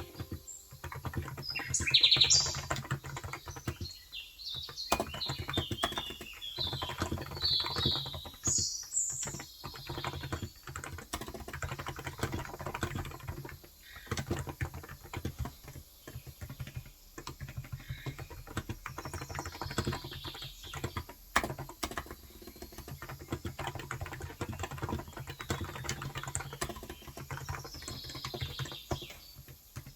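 Steady, fast typing on a Cox Endeavor electro-capacitive (contactless) 35 g tenkeyless keyboard. Birds chirp in the background, most often in the first ten seconds and briefly again later.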